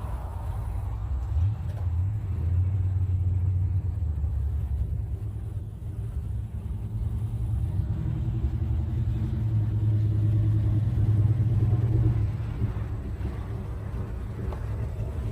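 Deep, low exhaust rumble of cars pulling out and driving past, swelling twice and loudest about eleven seconds in.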